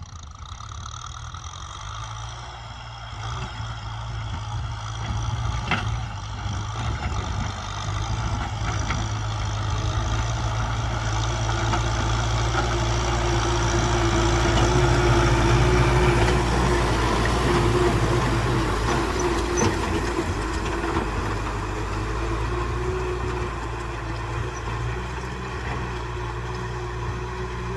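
Kubota M6040 tractor's diesel engine running steadily while working, growing louder until a little past the middle and then easing off slightly.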